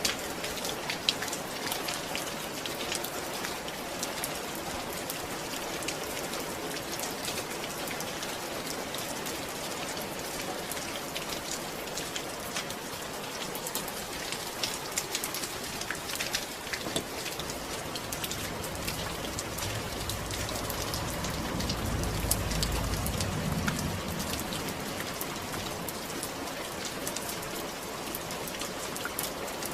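Steady rain with a patter of many small drops. About two-thirds of the way through, a low rumble swells and then fades.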